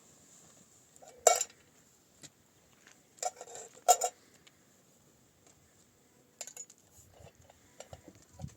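A few separate sharp clinks and knocks of dishes and utensils being handled, with quiet gaps between them and smaller clinks near the end.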